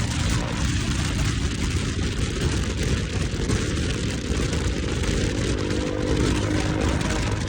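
KTM motorcycle with an aftermarket exhaust running steadily while being ridden, engine note mixed with a dense rumble of wind and road noise.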